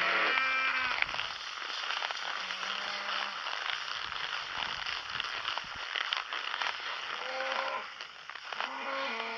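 Cattle lowing now and then, a few separate moos, over scattered short knocks and rattles.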